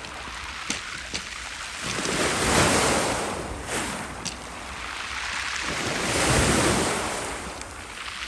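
Black Sea waves breaking on the shore, the surf rising and falling in slow surges about every four seconds, with some wind on the microphone.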